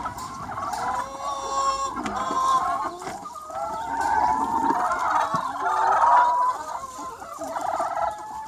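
A large free-range flock of chickens clucking and calling, many hens' voices overlapping without a break.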